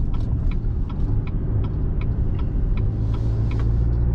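A truck's turn-signal indicator ticking at an even rate, about three ticks a second, over the steady engine and road rumble heard inside the cab. The ticking dies away near the end.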